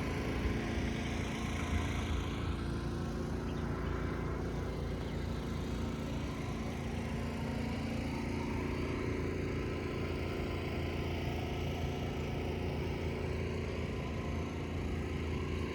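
An engine idling steadily, its low hum holding an even pitch throughout.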